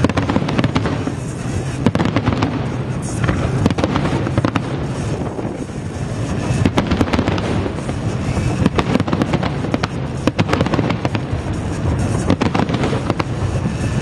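Aerial fireworks display going off continuously: many overlapping shell bursts in quick succession, sharp bangs over a constant crackling rumble, with no pause.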